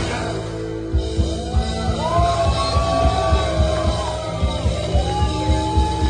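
Rock band playing, with a steady kick-drum beat coming in about a second in under long held melody notes that slide between pitches.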